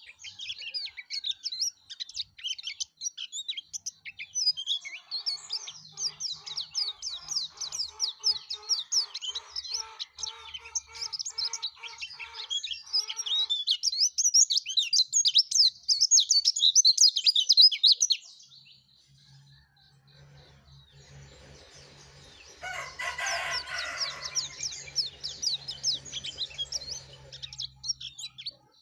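A pleci (white-eye) with a yellow breast singing in a fast, continuous, high-pitched twitter. The song breaks off at about 18 s and starts again a few seconds later.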